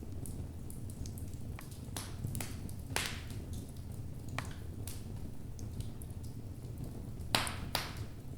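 Logs burning in a fireplace, crackling: scattered small pops over a low steady rumble, with a louder snap about three seconds in and two more near the end.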